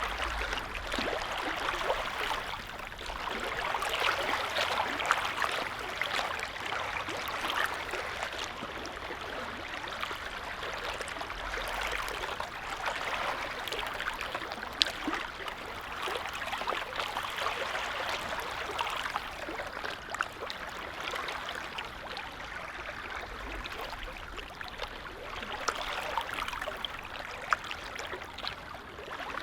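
Small lake waves lapping: a steady watery wash with many small splashes, swelling and easing every few seconds.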